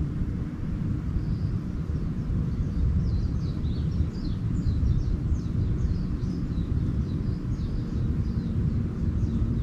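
Small birds chirping in quick, short falling notes, starting about three seconds in and repeating, over a steady low rumble that is the loudest sound.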